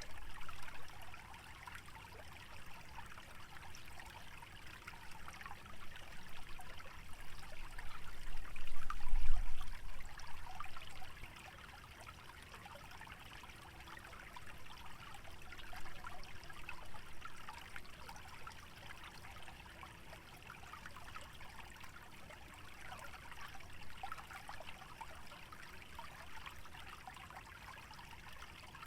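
A small wetland stream trickling steadily, a fine, busy splashing. A low rumble of wind swells and dies away about a third of the way in, briefly the loudest sound.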